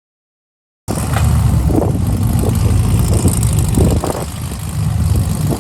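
Car engine running, starting abruptly about a second in, with wind rumbling on the microphone.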